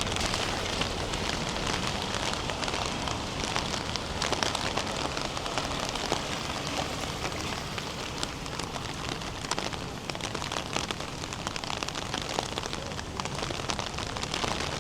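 Steady rain falling, with a continuous hiss and many close, sharp drop ticks.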